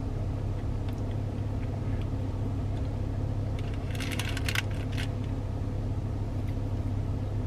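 Car engine idling with a steady low hum, and a brief clatter of small clicks about four seconds in.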